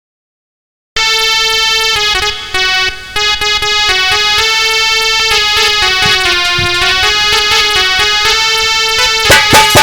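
Instrumental introduction of a devotional song: a synthesizer keyboard plays a sustained melody after a second of silence, and tabla-like drum strokes come in near the end.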